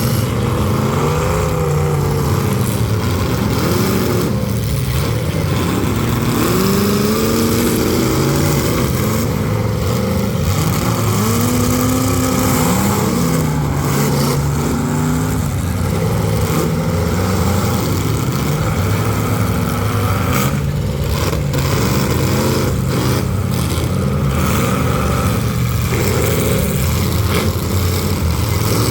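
Several full-size demolition derby cars' engines running and revving at once, their pitches rising and falling over each other as they accelerate and back up, with a few crashes of cars hitting each other.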